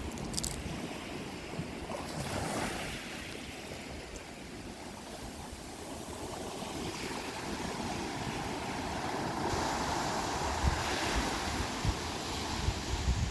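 Sea waves washing onto a rocky shore, the surf swelling louder in the second half, with wind buffeting the microphone.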